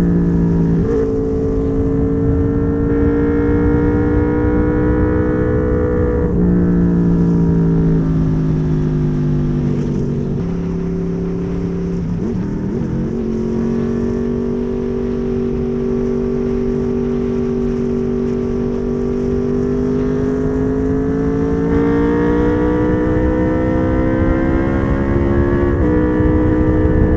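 Honda VFR800's V4 engine with a custom exhaust under way, its note jumping at several gear changes and climbing slowly and steadily through the second half before another shift near the end.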